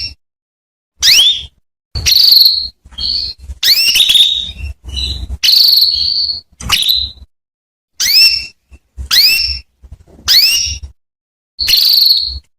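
Female canary calling: a run of short, high, rising call notes, about one a second with brief gaps, some drawn out into a held whistle. These are the calls used to lure a male canary into singing.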